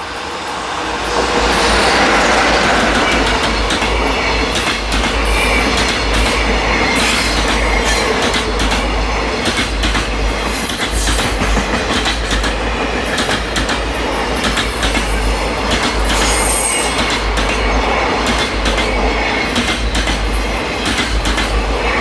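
Freight train passing close by, its wagons' wheels clattering over the rail joints with some wheel squeal and a heavy low rumble. It swells up about a second in and stays loud throughout.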